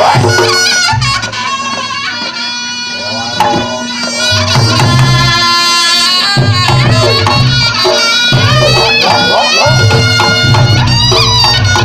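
Reog Ponorogo accompaniment music: the slompret, a shrill reed trumpet, plays a wavering melody over a steady drone and pulsing drums.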